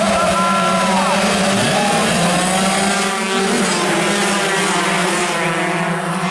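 Several 116cc two-stroke underbone racing motorcycles running hard at high revs, their engine notes overlapping. One note drops in pitch about a second in.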